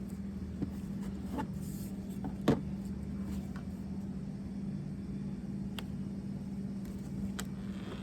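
Small plastic trim pieces and a metal clip being handled and fitted together: a few sharp clicks and taps, the loudest about two and a half seconds in, over a steady low hum.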